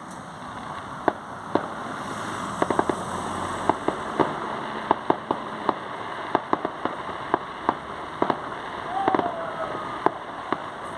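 Fireworks going off: a rapid, irregular series of sharp bangs and cracks, several close together about two to three seconds in and around nine seconds in.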